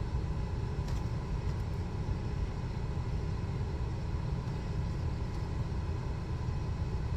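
Buick's engine idling with the air conditioning switched on and blowing cold air: a steady low rumble with a faint steady hum. The AC, just recharged with refrigerant, is now staying on.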